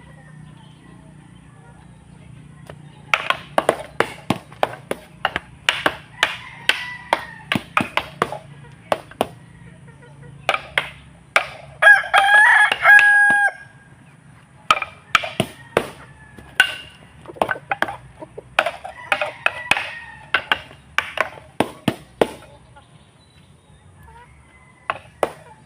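A rooster crowing once, loud and drawn out, a little before halfway through, with shorter fowl calls around it. Many sharp knocks or chops go on irregularly throughout.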